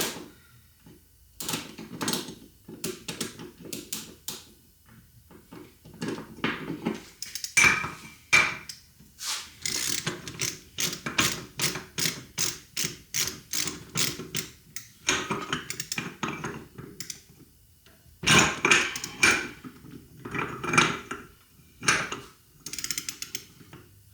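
Ratchet wrench clicking in repeated runs of short strokes, stopping and starting, as the bearing adjusting nut on a Toyota front hub is tightened to its final torque of 21 foot-pounds.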